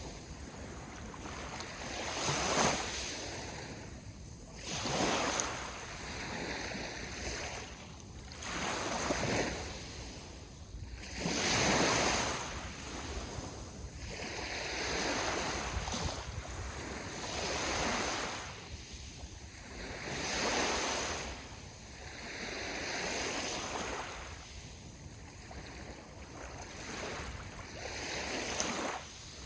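Sea waves breaking and washing up on the shore, the surf swelling and fading again every two to four seconds.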